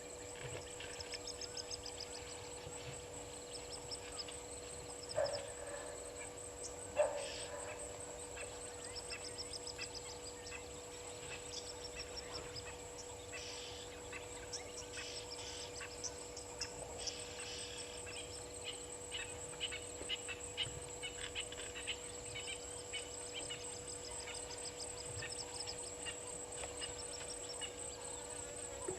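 Outdoor bush ambience: several birds chirping and calling over a steady, high, fast-pulsing insect buzz, with two louder calls about five and seven seconds in.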